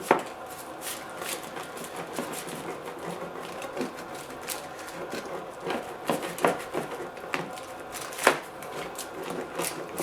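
A deep dish pizza being cut through: a quick run of irregular scraping and clicking strokes, with sharp knocks just after the start and about eight seconds in.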